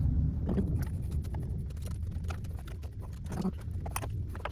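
Light, irregular clicks and taps of hands working a motorcycle fuel tank into place and fitting its hoses and connectors, over a steady low hum.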